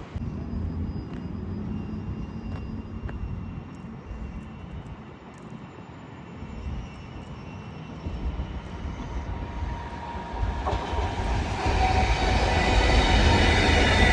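A train approaching and passing: a low rumble grows louder from about eight seconds in and becomes a loud rolling rush of wheels on rail near the end.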